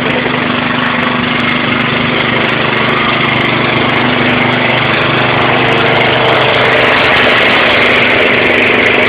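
Heavy rain, a steady even hiss, over a low steady hum that weakens about seven seconds in.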